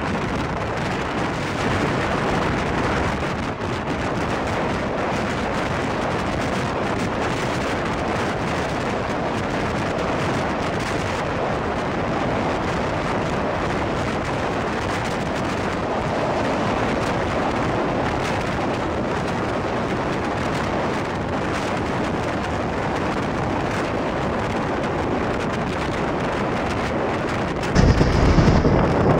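Steady roar of a moving passenger train heard from an open coach doorway, wheel and rail rumble mixed with rushing air. Near the end a louder, deeper rumble starts suddenly.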